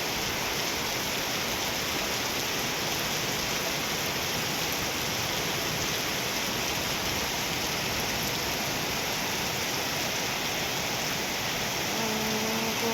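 Heavy storm rain pouring down, a steady, even hiss with no break. A person's voice starts faintly near the end.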